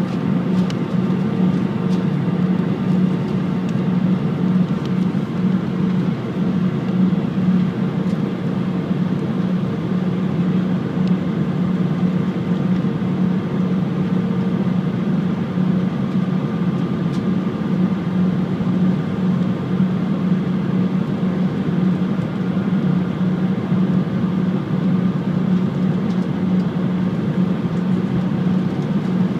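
Steady cabin noise of an Airbus A319 in descent, heard from inside the passenger cabin: a constant rush of engine and airflow with a low, even hum.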